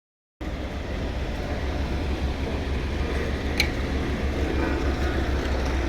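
Steady rumbling noise, heaviest in the low end, starting about half a second in, with one brief high chirp a little past halfway.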